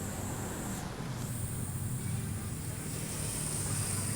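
Motorcycle engine running steadily at riding speed, with a low hum and road and wind noise.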